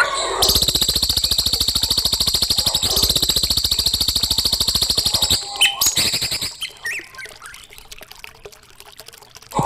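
Recorded songbird song: a long, fast trill of rapidly repeated notes for about five seconds, followed by softer scattered chirps and short calls.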